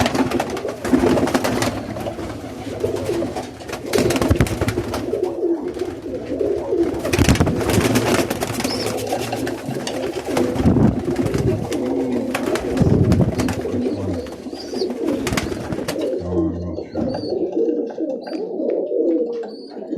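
Several Birmingham Roller pigeons cooing, with a run of clattering and rustling over the cooing that stops about three quarters of the way through, leaving only the cooing.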